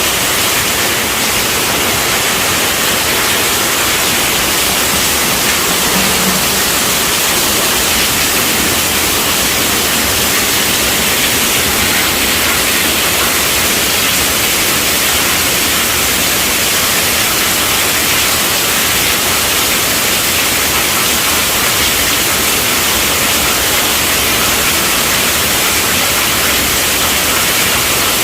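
Steady rainfall: an even hiss of rain, without pauses.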